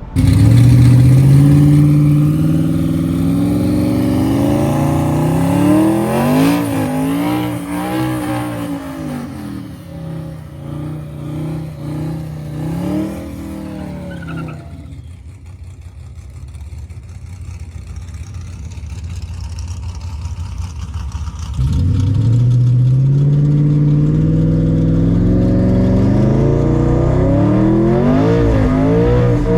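Twin-turbo Ford F150's engine accelerating hard on a drag pass, its pitch rising and falling as it pulls through the gears before fading. About 22 s in, a loud run starts suddenly and its pitch climbs again.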